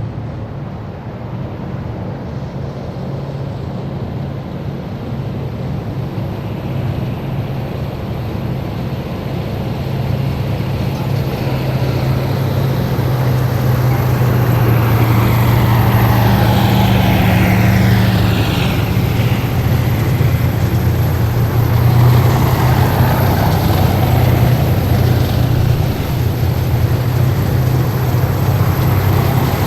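Heavy military vehicles driving past in a column, their engines a deep steady drone that grows louder over the first half. A whine in the upper range falls in pitch as the vehicles go by.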